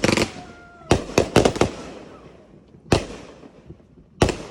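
Fireworks going off: irregular sharp bangs, each with a short echo. A quick flurry comes at the start and another about a second in, then single bangs near three seconds and near the end.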